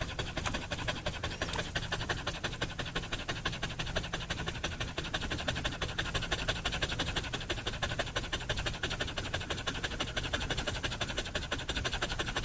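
A dog panting rapidly and evenly, a steady run of quick breaths.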